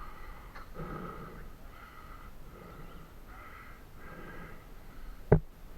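Heavy, rhythmic breathing close to the microphone, about one breath every three-quarters of a second, from a player moving through the field in a paintball mask. Near the end comes a single sharp pop, the loudest sound.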